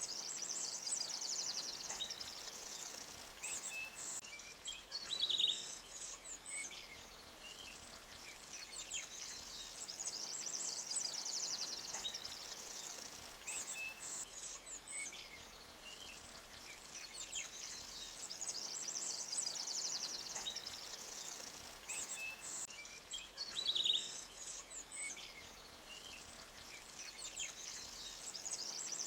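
Forest birdsong: high, trilling songs and scattered chirps over a faint steady hiss. The same sequence of phrases comes round again about every 18 to 19 seconds, as in a looped ambience track.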